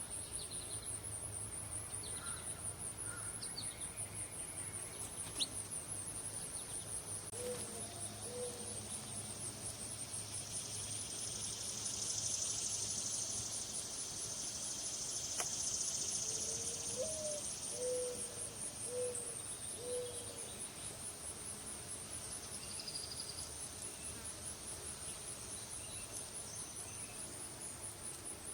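Insects trilling steadily in a high, fast-pulsing chorus, with a bird's low hooting or cooing notes given in short series about a third of the way in and again past the middle, and a few thin bird chirps early on.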